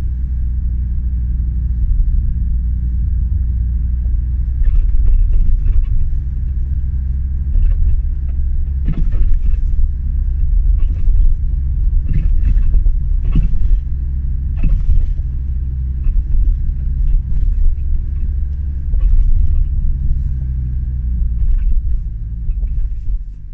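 Volvo V70 II front axle clunking and rattling over a steady low driving rumble, with irregular sharp knocks coming in clusters. The clunking and squeaking is a front-axle fault that workshops have not been able to trace.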